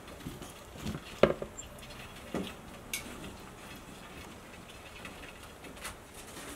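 A handful of light knocks and clicks, like small objects being handled, with the sharpest knock about a second in and a few fainter ones after.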